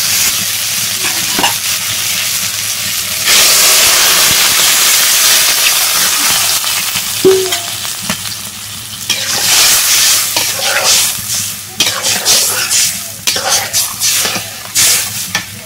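Tomatoes and brinjal sizzling in hot oil in a metal wok. About three seconds in, water goes into the hot pan and the hiss grows louder. In the second half a spatula stirs and scrapes the wok in irregular strokes.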